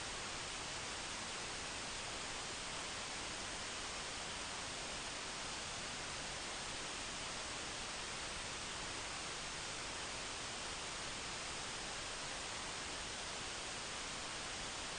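Steady, even hiss of static, unchanging throughout, with no other sound standing out.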